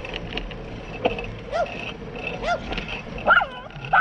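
A small dog barking, a few short yaps about a second apart that start a second or so in, over steady riding noise.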